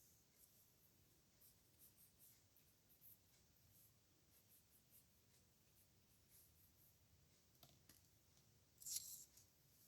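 Pen nib scratching faintly on paper in short, scattered strokes, with a louder, longer scratch near the end.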